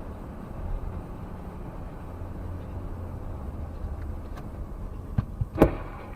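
A car driving, with a steady low rumble of engine and road noise. Near the end come a few sharp knocks, the loudest a short bang just before the end.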